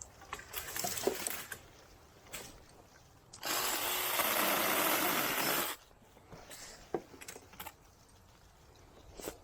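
Small 6-inch battery-powered mini chainsaw running for about two and a half seconds, starting about three and a half seconds in, as it cuts a tallow sapling. Brush rustles before it and a few small snaps and clicks follow.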